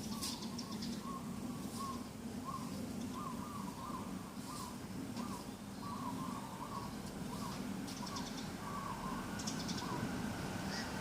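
Birds calling in the morning: one bird repeats short notes, about two a second, while others give higher chirps now and then, over a steady low hum.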